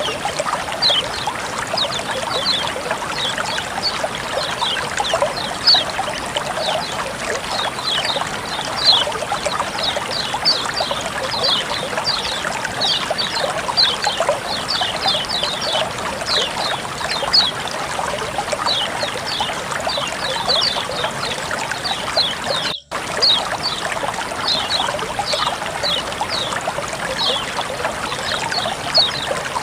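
Water flowing and trickling steadily, with a dense patter of small bright plinks. The sound drops out for a split second about 23 seconds in.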